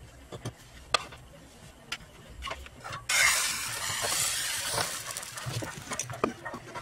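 Omelette sizzling in a hot rectangular frying pan: the sizzle starts suddenly about three seconds in and dies away over the next few seconds, after a few sharp clicks.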